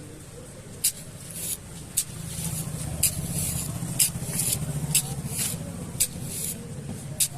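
A small motor running steadily with a low hum, with a hiss that comes and goes and a light tick about once a second.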